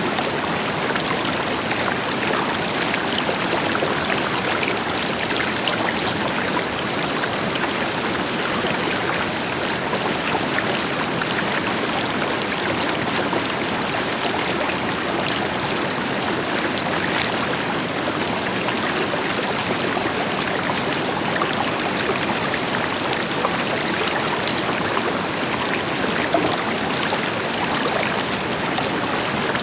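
River water flowing and splashing over rocks, a steady rushing with fine splashes, over the deeper hiss of a waterfall further off.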